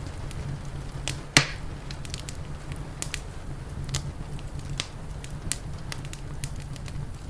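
Wood fire crackling, with scattered sharp pops, the loudest about one and a half seconds in, over a steady low rumble.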